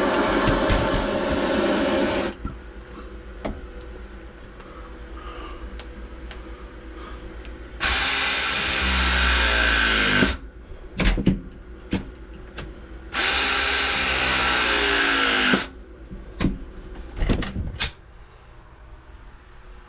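A handheld power tool runs in two bursts of about two and a half seconds each, winding down after each, with sharp clicks and knocks of tool handling between. A loud steady noise stops about two seconds in.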